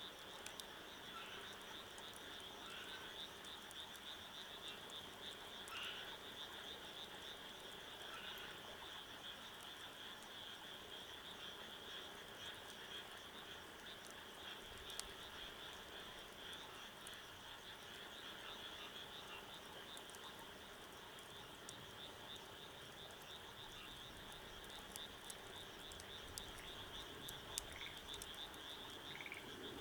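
A chorus of frogs calling: a continuous high chirring with a few separate short calls standing out, plus scattered faint clicks.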